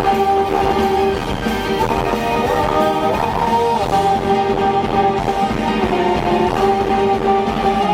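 Live rock band playing an instrumental break, with a guitar carrying a melody of held notes over the full band.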